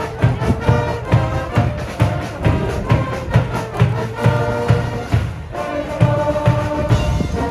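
A school cheering section's brass band playing a fight song in the stands, with held horn notes over a steady drum beat.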